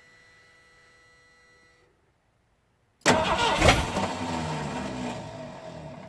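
A faint steady hum, then, about three seconds in, the 351M V8 of a 1979 Ford F-150 is suddenly cranked and tries to fire before dying away. Its starter is slipping and not engaging properly, so the engine does not keep running.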